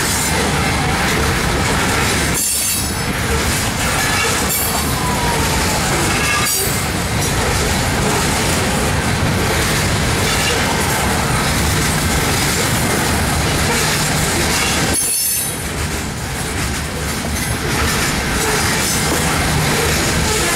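Freight train of refrigerated boxcars rolling past: a steady, loud rumble and rattle of steel wheels on the rails.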